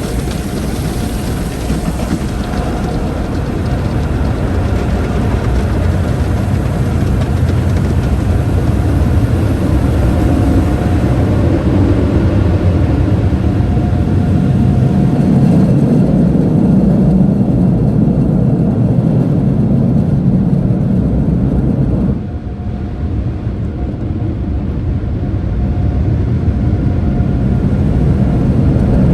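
Automated tunnel car wash machinery heard from inside the car's cabin: a loud, steady rush and rumble that drops suddenly about three-quarters of the way in, then builds back up.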